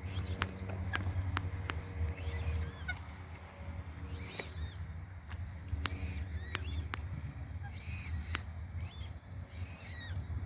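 Water-bird chicks begging for food with short, high-pitched calls that repeat every second or two, among a few sharp clicks.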